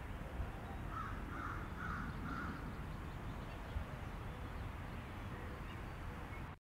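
A bird calling four times, about half a second apart, over a steady low outdoor rumble. All sound cuts off abruptly near the end.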